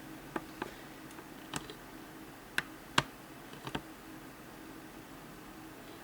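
Several sharp, irregular clicks and light taps, the loudest about three seconds in, over a faint steady hum.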